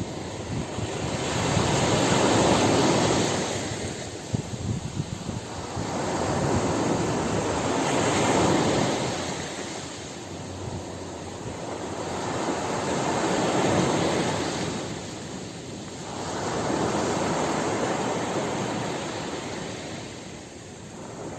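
Ocean surf: waves breaking and washing in, swelling and falling away about every five to six seconds, four surges in all.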